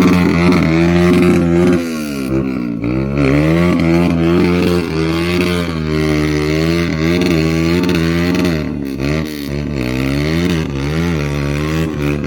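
Motorcycle engine running hard at steady revs, then about two seconds in dropping and revving up and down again and again as the throttle is worked.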